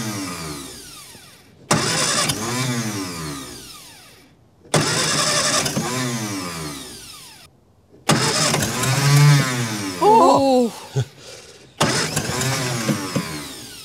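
A 1954 Austin A30's four-cylinder A-series engine is cranked on the starter in short bursts of two to three seconds each, about five in all. It turns over without catching. Each burst starts suddenly, fades away and then stops.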